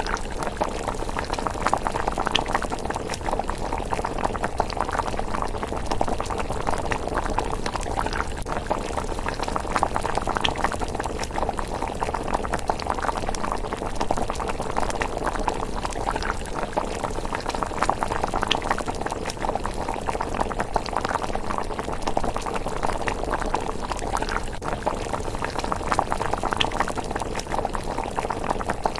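Thick rice porridge simmering in a pot with a steady, dense bubbling, and occasional small crackles from the wood fire beneath it.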